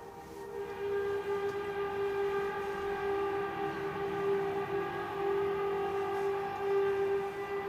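A steady, sustained droning tone with a row of overtones, holding one pitch and wavering only slightly in loudness, after a brief dip at the very start. This is the unexplained 'strange sound' heard over Terrace, British Columbia, which the uploader likens to trumpets.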